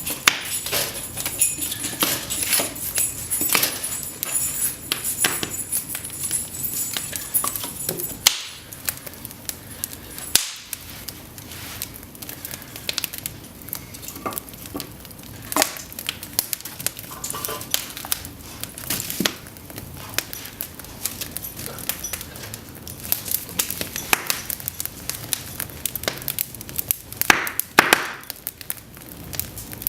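Cedar logs burning in an open fireplace: constant irregular crackling with sharp pops, a few louder snaps, the biggest near the end. A faint high hiss sits under the crackle and stops about ten seconds in.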